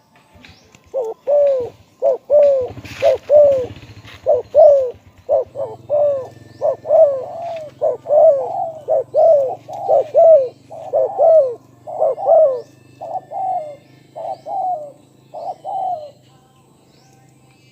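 Spotted dove cooing: a long run of short, arched coo notes repeated in quick succession, starting about a second in and stopping about sixteen seconds in.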